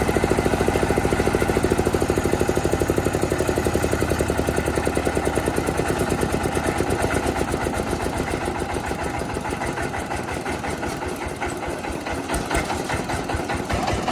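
Engine of a rice milling machine running with a rapid, even pulsing. In the second half it grows quieter and the pulses slow and spread out.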